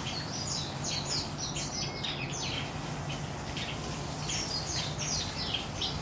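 Small songbirds chirping: quick clusters of short, high chirps, each sliding downward, over a faint steady low hum.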